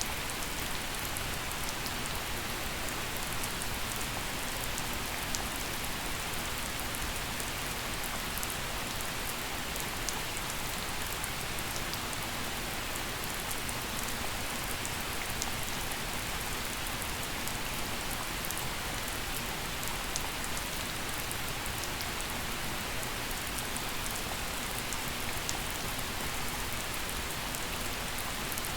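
Gentle rain falling steadily, an even hiss with scattered individual drops ticking on surfaces.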